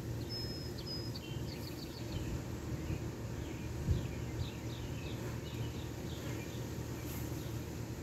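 Small birds chirping: a couple of short high whistled notes about half a second in, then runs of quick falling chirps around the middle, over a steady low rumble. A single soft thump about four seconds in.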